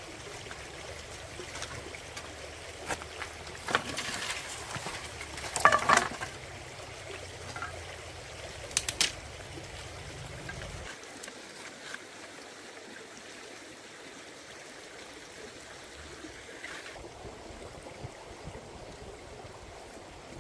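Stream water running steadily, with a few sharp knocks or clinks: a cluster about four to six seconds in, the loudest near six seconds, and a quick pair near nine seconds.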